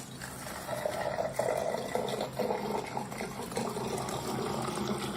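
Steady running water, like a tap running into a sink.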